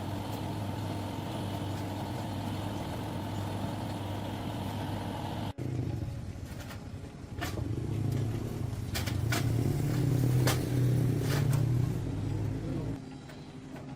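A motor running with a steady low hum. After a sudden cut, a machine runs with a lower drone and scattered sharp clicks and knocks, getting louder and then dropping away about a second before the end.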